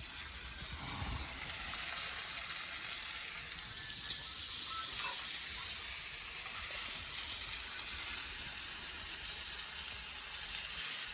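Slices of pork belly (samgyeopsal) sizzling steadily on a hot pan.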